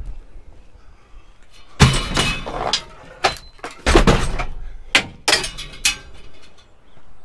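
A string of loud knocks and clatters, as hard junk objects are handled and knocked together, starting about two seconds in. The loudest hits come near two and four seconds in, and the clattering stops about six seconds in.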